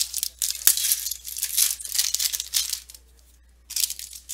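Trading cards being handled and flipped through: a run of rustling, sliding scrapes with a sharp click less than a second in. After a pause, a shorter burst of rustling comes near the end.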